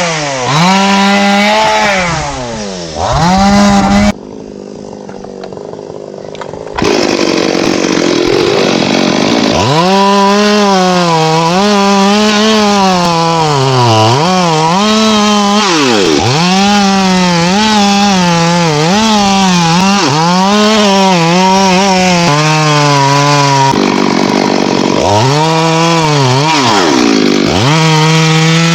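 Two-stroke chainsaw cutting teak, its engine pitch sagging again and again as the chain bites into the wood, then rising as it frees. About four seconds in the saw drops away for roughly three seconds, then comes back in and keeps cutting.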